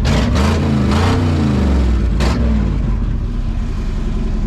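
1979 Ford F150's V8 engine idling while it warms up, now firing on all eight cylinders after a tune-up; its pitch swings up and down over the first couple of seconds, then settles steady. A few short hissing noises come over it early on.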